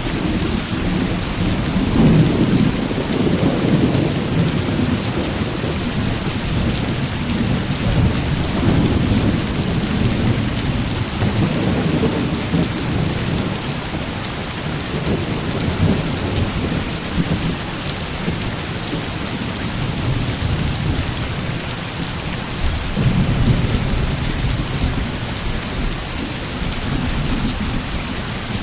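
Heavy rain falling steadily, with rolls of thunder rumbling low and swelling several times, near the start, in the middle and again near the end.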